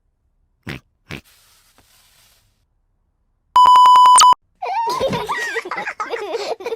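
A loud censor bleep: a single flat 1 kHz tone lasting under a second, cut in over the cartoon soundtrack and preceded by two soft clicks. After it comes a dense, warbling, garbled voice-like sound.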